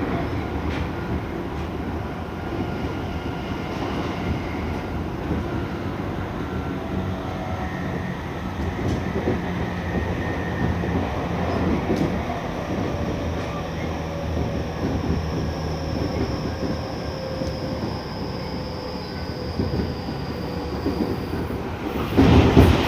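Interior running sound of a Tokyu 5000-series electric train at speed: steady wheel-on-rail rumble with the whine of its Hitachi IGBT-VVVF inverter and traction motors. There is a louder burst of noise near the end.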